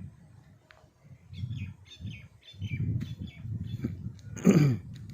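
Birds chirping: a run of short, quick, high chirps in the first half, over a low rumble. Near the end comes one loud, brief cry that falls in pitch.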